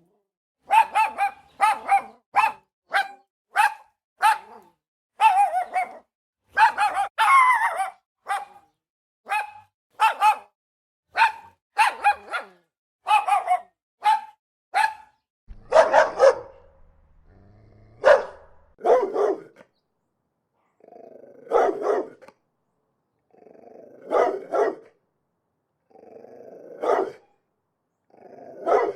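Dogs barking. For the first half the barks are short and sharp, about two a second. About halfway it changes to slower, deeper barks spaced a second or two apart.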